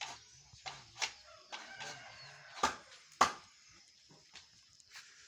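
Washed cooking pots and utensils knocking and clattering with a run of sharp knocks, the loudest a little over three seconds in, with a chicken clucking.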